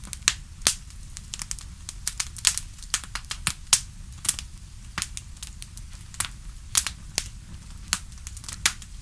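Wood fire in a fireplace crackling, with irregular sharp pops several times a second over a low steady rumble.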